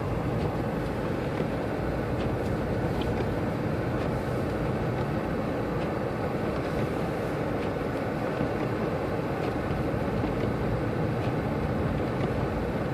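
Steady road and engine noise heard from inside a car driving through snow, with a few faint ticks scattered through it.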